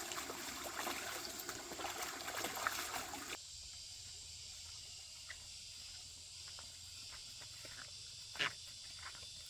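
Water trickling and splashing as someone washes. About three seconds in it cuts off abruptly to steady high insect chirring with a few light knocks, one sharper knock near the end.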